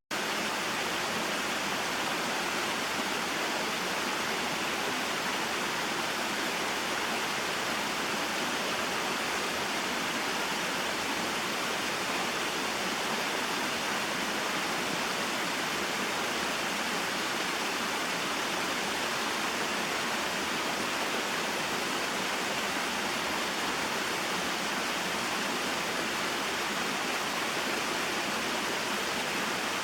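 A small waterfall and mountain stream: water falling and flowing over rocks in a steady, even rush with no change.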